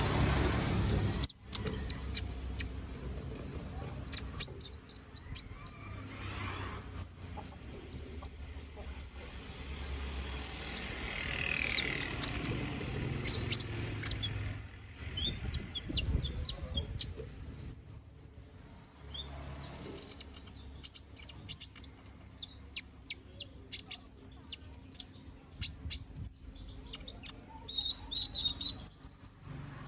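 Kolibri ninja, a small sunbird, singing full and vigorously: fast runs of high, thin chirps and short trills in bursts, one after another. A low rumble sits under the first second.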